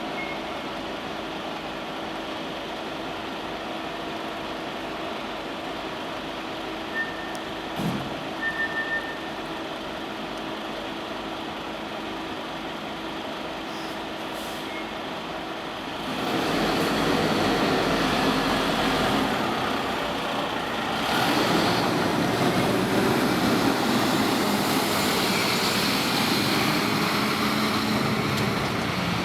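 Fire engine's diesel engine running steadily, with a short run of high beeps partway through; about halfway, the engine noise jumps sharply louder and stays loud as the truck gets under way.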